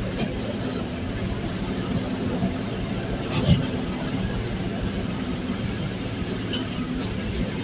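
Passenger train running, heard from inside the coach: a steady rumble with a low drone, and one brief sharp knock about three and a half seconds in.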